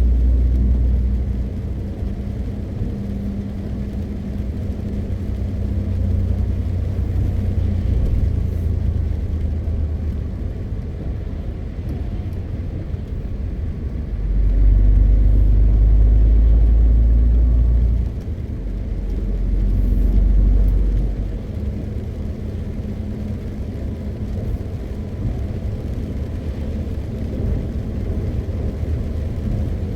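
MAN TGX 520 truck's 12.4-litre six-cylinder diesel engine running under way with a steady low drone and road noise. It swells louder twice in the middle, the first time for about three and a half seconds ending in a sudden drop, then again for about three seconds.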